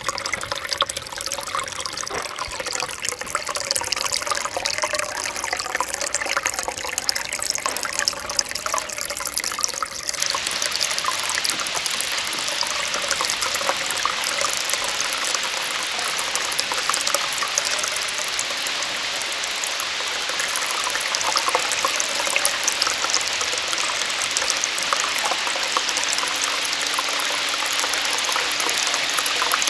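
Water falling and splashing in a steady rush from a small waterfall; about ten seconds in the rush becomes fuller and brighter.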